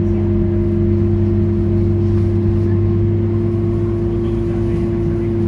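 Scania K230UB bus's five-cylinder diesel engine running at a steady speed, a constant low drone with a steady hum.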